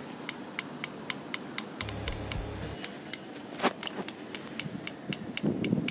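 A fast, even ticking, about four sharp ticks a second, with a brief low hum around two seconds in.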